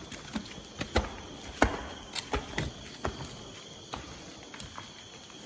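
Footsteps of several people climbing stairs: irregular thuds and scuffs, most of them in the first three seconds, thinning out after. A steady high cricket trill runs behind them.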